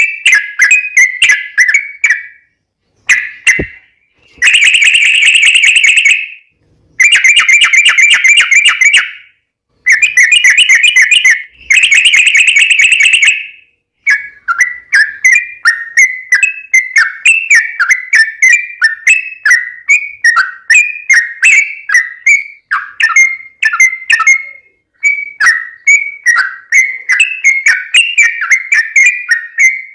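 Yellow-vented bulbul (trucukan) singing a long rolling song of rapid bubbling notes. The first half comes as dense trilled runs broken by short pauses; from about halfway it turns into an unbroken string of quick chattering phrases.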